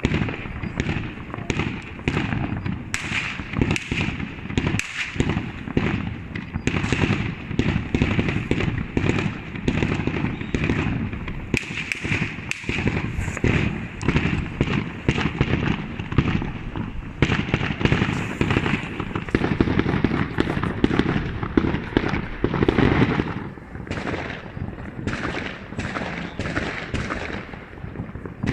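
Many fireworks exploding in quick succession: bangs overlapping several a second without a break.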